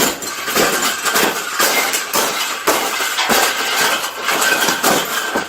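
Wire bird cage being bent and folded by hand, its metal bars clattering and clanking in a rapid, irregular run of knocks and rattles.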